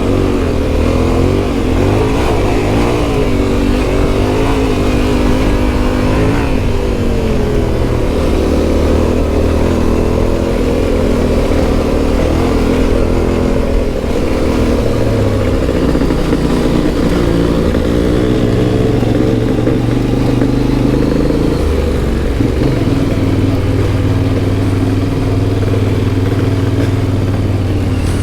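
Yamaha Ténéré 700's 689 cc CP2 parallel-twin engine with an Akrapovic exhaust, ridden off-road, its revs rising and falling again and again with throttle and gear changes.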